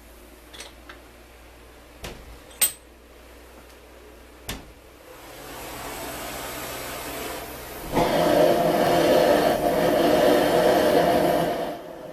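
A few sharp knocks, then a homemade box fan driven by an old oscillating-fan motor starts up and runs with a steady rush of air and a faint hum. It gets much louder about eight seconds in and stops just before the end.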